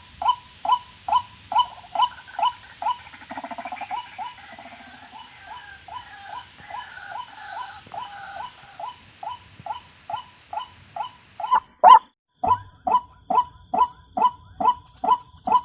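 White-breasted waterhen calling, a short falling croak repeated about four times a second without a break, under a high, fast-pulsing insect trill that drops out twice.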